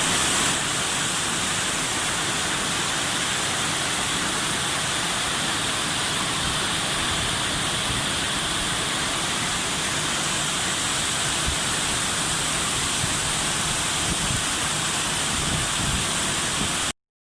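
Torrential rain pouring down in a steady, heavy hiss. It cuts off suddenly near the end.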